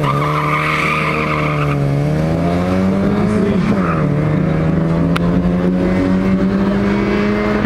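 Opel Astra's engine at full throttle, launching off a drag-strip start line and accelerating away. Tyres squeal for the first second and a half or so off the line; the revs then climb, drop sharply at a gear change about three and a half seconds in, and climb again.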